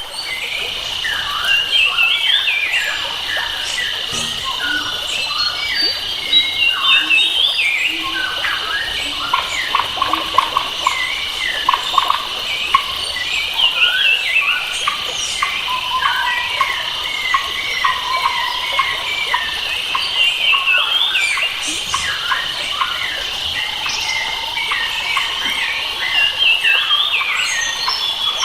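Forest birds chirping and calling over a steady high drone of insects.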